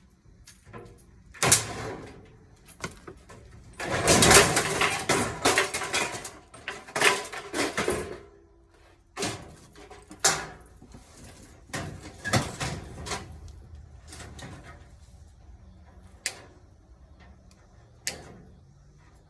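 Clanks and knocks of tools and metal parts being handled while a washing machine is taken apart to remove its motor, with a longer stretch of clattering rattle in the middle and single sharp knocks before and after it.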